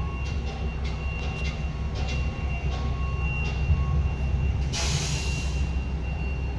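A steady low mechanical rumble with a faint high whine, and a short burst of hiss about five seconds in.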